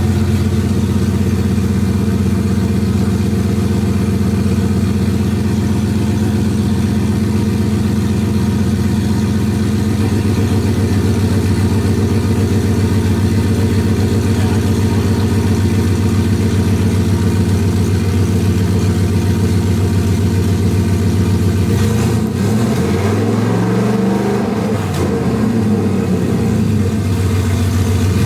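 Turbocharged 2018 Ford Mustang GT's 5.0 V8 idling steadily. Near the end the revs rise and fall several times in short blips.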